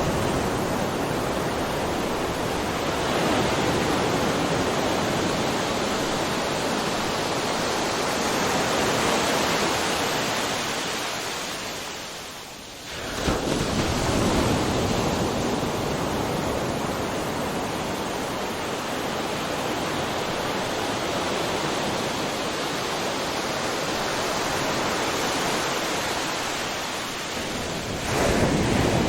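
Ocean surf: waves breaking in a continuous rushing wash. About twelve seconds in it dips to a brief lull, then surges back sharply as the next wave crashes, and another wave swells in near the end.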